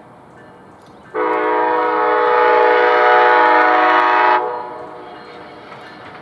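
Train horn sounding one long blast of about three seconds, a steady multi-note chord that starts sharply and cuts off, with its echo fading after. A low rumble of the passing train runs underneath.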